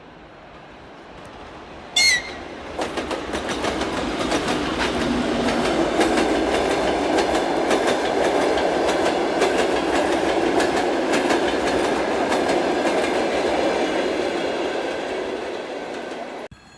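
A train passing close by, its wheels clacking rhythmically over the rail joints as it approaches, goes by and recedes. It is preceded about two seconds in by a short, high whistle blast. The sound cuts off abruptly near the end.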